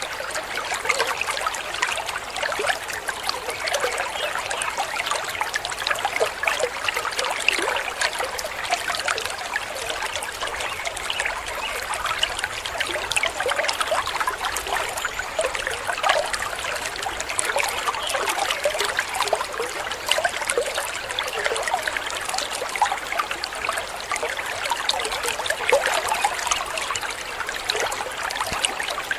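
Waterfall water splashing and trickling steadily, a continuous busy patter of water without pauses.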